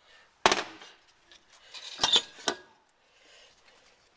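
Metal hand tools clanking and clinking against the cylinder head of a Renault Clio 1200cc engine as the last two head studs are undone: one sharp clank about half a second in, then a few ringing clinks about two seconds in.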